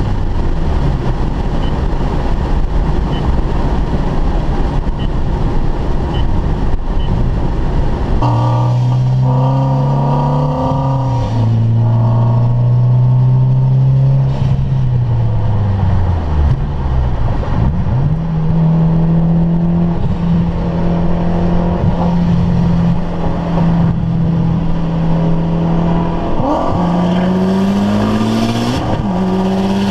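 High-performance car engine heard from inside the cabin over road and wind noise. The engine note is low and dropping at first, then from about a quarter of the way in rises and falls with throttle and gear changes, holds steady for several seconds, and climbs again near the end as the car accelerates.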